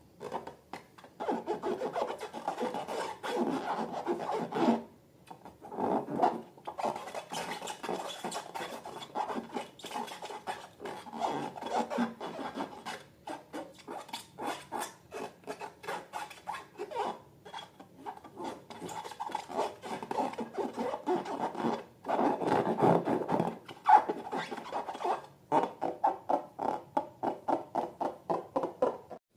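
Slime being worked by hand: a run of crackly, rubbing strokes made of many quick clicks, in bursts a few seconds long, and near the end steady strokes at about four a second.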